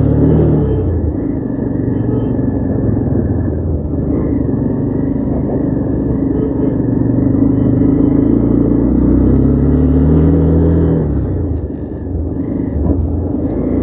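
Motorcycle engine running under load up a steep climb, its pitch rising and falling with the throttle; it eases off about eleven seconds in, followed by a few short clicks.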